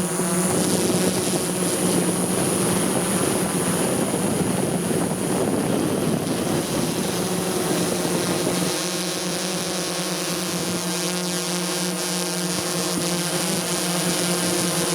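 Multicopter drone's propellers and motors with a steady buzzing hum. A rougher low rumble under it drops away about nine seconds in.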